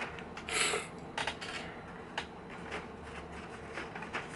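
Plastic sheets inside an LED TV's backlight panel being handled and pulled off: a short rustle about half a second in, then a few light clicks and taps.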